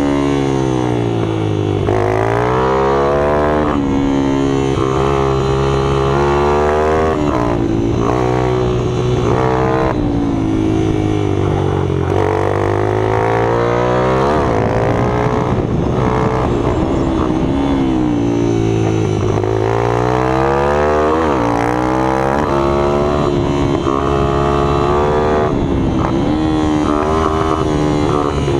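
Minibike engines revving up and dropping back over and over, their pitch rising and falling every few seconds, with more than one engine heard at once at times.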